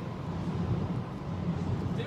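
Southeastern Class 395 Javelin electric multiple unit pulling out of the station, a steady low rumble.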